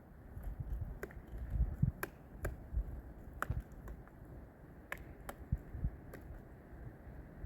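About seven sharp snaps and clicks, scattered irregularly, over a low wind rumble on the microphone.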